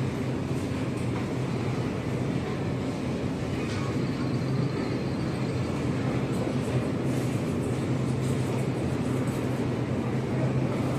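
Supermarket background noise: a steady low hum and rumble, with a few faint clicks and a thin high tone about four seconds in.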